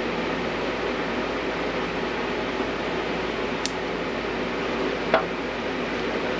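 Steady fan-like whirring noise, with a light click about three and a half seconds in and a sharper knock about five seconds in.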